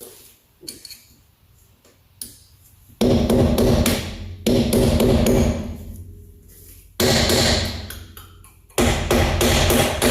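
A power cutting tool run in four short bursts, each about a second and a half and starting suddenly, cutting through a metal part on a pickup's rear axle.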